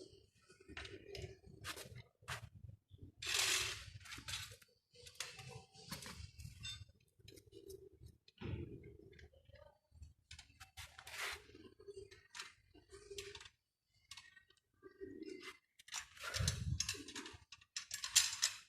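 Faint, irregular clicks, clinks and scrapes of tools and parts being handled, with no engine running.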